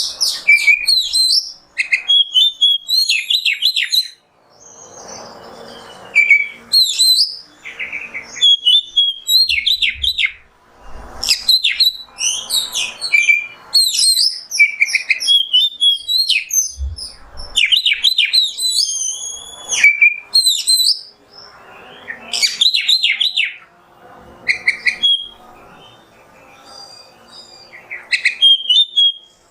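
Oriental magpie-robin (kacer) singing: loud bursts of varied whistles, sweeping notes and rapid trills, with short pauses between phrases, where faint background noise is heard.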